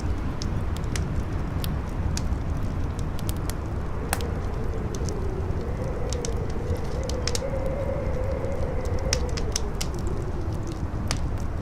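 Campfire crackling with scattered sharp pops over strong howling wind: a steady low rumble with a moaning tone that slowly rises and falls.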